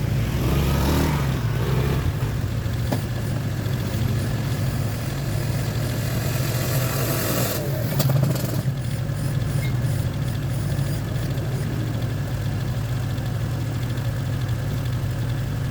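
Car engine idling steadily, with brief louder, hissier moments about a second in and again around eight seconds.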